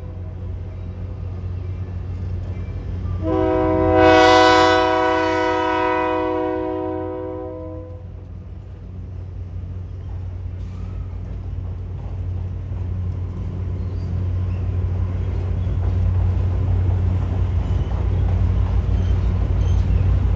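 Diesel train horn sounding one long chord blast of several notes together, a few seconds in, with the end of an earlier blast just at the start. Under it the train's low engine rumble runs on and grows louder toward the end as the train comes closer.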